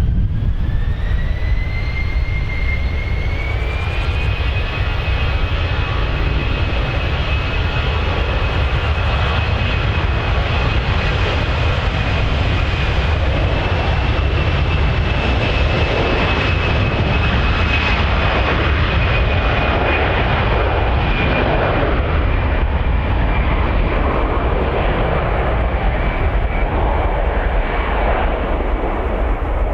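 Jet airliner engines spooling up: a whine climbs in pitch over the first few seconds, then holds steady over a loud, broad rumble. The upper hiss dies away toward the end.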